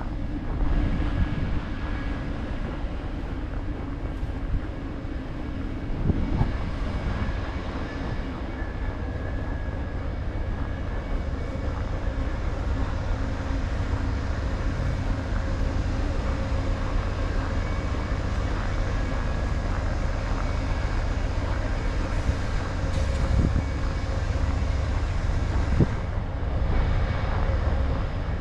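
Amtrak's California Zephyr passenger train pulling in: the steady low rumble of its diesel locomotives and rolling Superliner cars, with faint steady whining tones above it.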